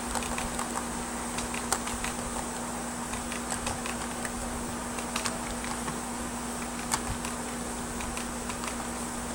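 HO scale Norfolk Southern SD50 model locomotive running quietly on its track, with scattered light clicks from the wheels on the rails. A steady air-conditioner hum lies under it.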